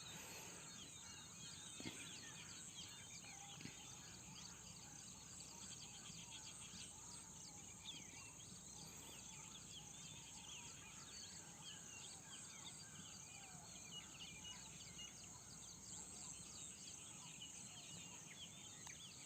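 Faint outdoor background of many small birds chirping over a steady high insect drone, with a faint knock about two seconds in.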